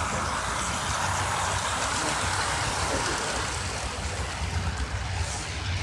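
Model train running on its track: a steady whir of the electric locomotive motor and the rumble of wheels on rail, over a low hum.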